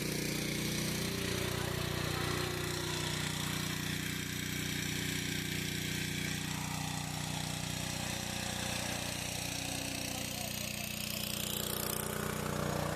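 An engine running steadily with an even, unbroken hum.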